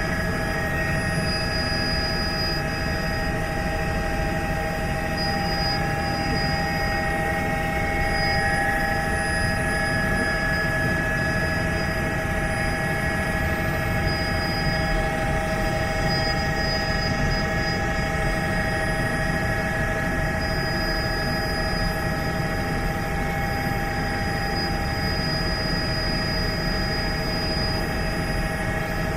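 Helicopter in steady flight: constant rotor and engine rumble with a steady multi-pitched whine.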